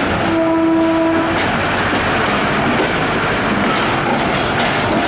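Passenger train coaches rolling past close by: a steady rumble and rattle of wheels on the track. A single horn note sounds for about a second near the start.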